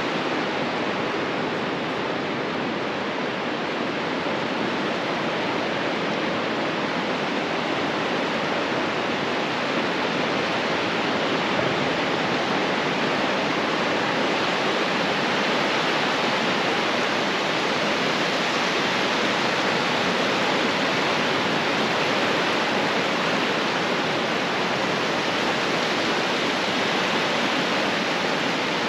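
Ocean surf on a beach, a steady unbroken rush of breaking waves.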